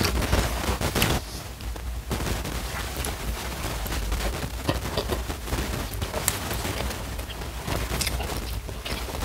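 A person chewing food close to the microphone, with wet mouth sounds and many sharp clicks and crackles scattered throughout.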